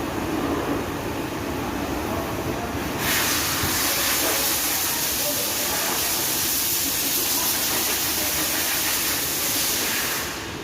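Compressed air hissing in a strong, even blast that starts abruptly about three seconds in and cuts off near the end, over a steady workshop background.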